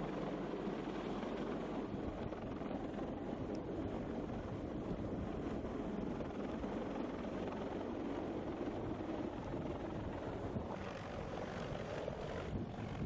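Steady aircraft engine noise, an even continuous rumble.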